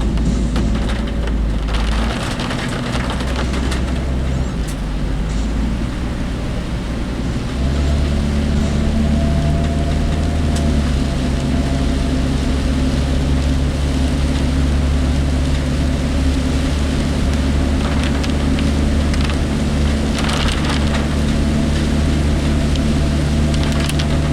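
Work vehicle's engine and road noise heard from inside the cab while driving through typhoon rain, with rain hitting the vehicle and the body rattling. About seven and a half seconds in the engine note rises and gets louder, then holds steady.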